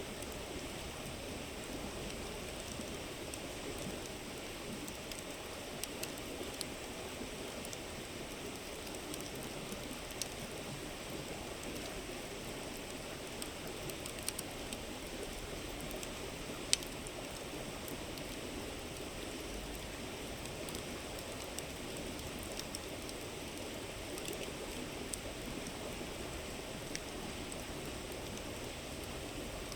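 River water flowing steadily, with scattered crackles and pops from a wood campfire; the sharpest pop comes about halfway through.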